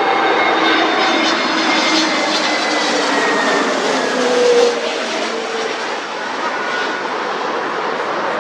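Jet airliner's engines running as it passes: a loud rushing noise with whining tones that drift slowly down in pitch, loudest a little past halfway.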